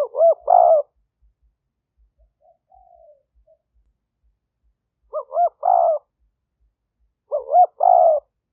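Spotted dove cooing: three short, loud phrases of a few notes each, at the start, about five seconds in and near the end, with a much fainter coo between the first two.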